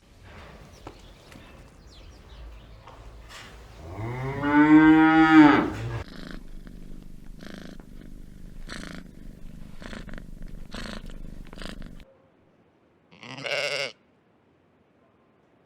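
Farm animal calls: a single long moo about four seconds in, rising then falling in pitch, over a low steady rumble with short sharp sounds after it; a short bleat follows near the end.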